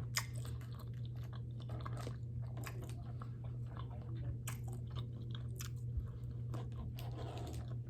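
Close-miked chewing of a bite of spicy tuna sushi roll: soft wet mouth clicks and light crunching, many small sounds scattered irregularly, over a steady low hum.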